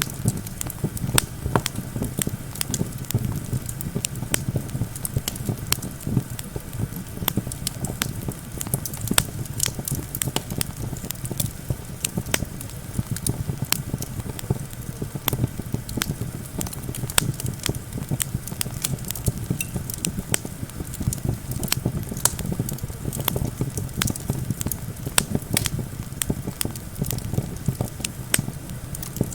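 Wood campfire crackling with frequent sharp pops and snaps, over a steady low rumble of wind.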